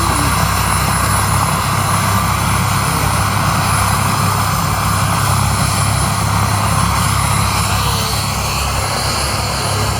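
A 1966 Bell Huey helicopter running, its rotor and turbine engine making a loud, steady noise.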